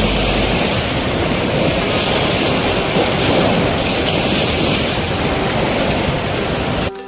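Steady, loud rushing noise without pitch, cut off suddenly near the end as music starts.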